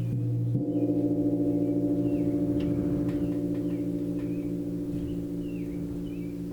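A gong struck about half a second in, ringing on with many overlapping tones that pulse and shimmer as it slowly fades. Faint high chirps sound in the background.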